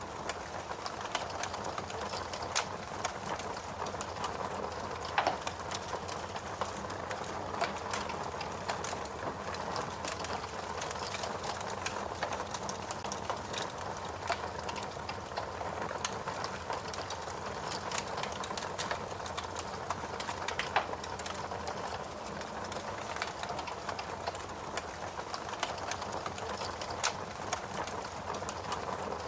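Wood fire crackling: a steady hiss with many small crackles and an occasional louder pop.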